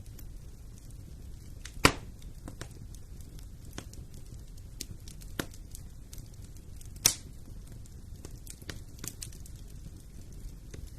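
Fire burning in a fireplace: scattered crackles over a low, steady rumble, with two sharp, loud pops, one about two seconds in and one about seven seconds in.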